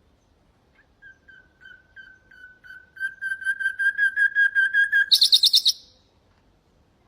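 Nightingale singing one song phrase: a string of repeated whistled notes that grows louder and quicker, ending in a short, loud, rapid, higher-pitched trill.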